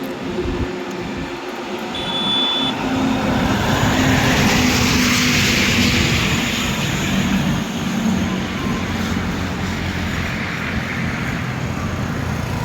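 A heavy road vehicle passes close by on the highway. Its engine and tyre noise swell for a few seconds and then slowly fade, and the engine note drops a little as it goes by.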